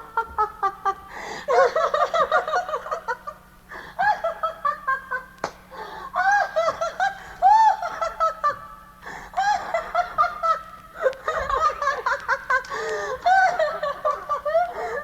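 Recorded laughter in bouts of short rising-and-falling bursts, with brief breaks about four, nine and eleven seconds in.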